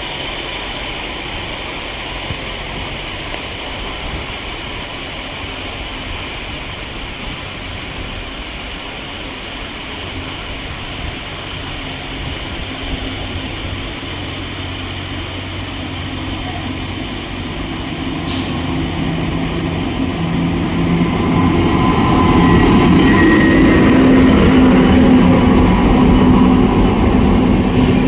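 Steady rain falling, with an approaching WAP-7 electric locomotive hauling an express train. From about two-thirds of the way in, the train gets steadily louder and its low electric hum and whine rise up through the rain.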